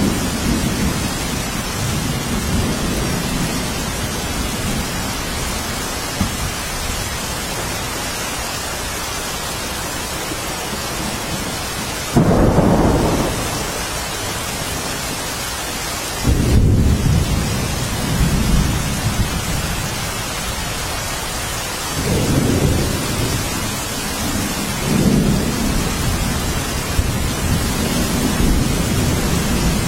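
Steady rain hissing, with low thunder rumbling underneath. The rumbles swell up sharply about twelve and sixteen seconds in, and more softly twice later.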